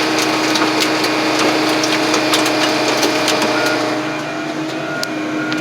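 Car crusher running with a steady machine drone while it crushes steel truck frames, with a rapid crackle of sharp cracks and snaps. About four seconds in the crackling stops, the machine noise eases, and a vehicle's reversing beeper starts beeping at a steady pace.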